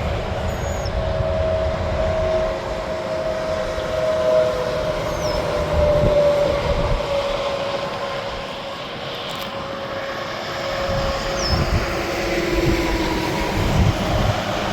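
Heavy interstate traffic passing: tractor-trailers' tyre and engine noise swelling and easing, with a steady tyre whine that drifts in pitch. A few faint bird chirps sound over it.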